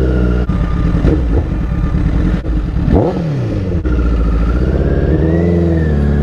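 2012 Honda CBR1000RR's inline-four engine accelerating hard, its pitch bending, with short breaks in its note about three times, as at gear changes.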